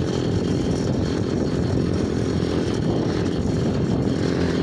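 Small engine of a homemade mini bike running steadily under way.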